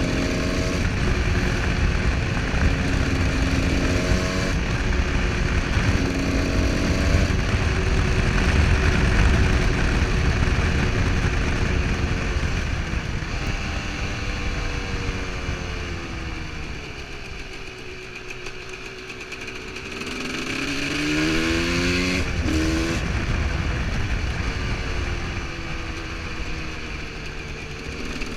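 Husqvarna SM125 supermoto's single-cylinder engine under way, revving up and dropping back with each gear change. It slows and quietens past the middle, then revs up hard again about three-quarters through before settling, under steady wind rush.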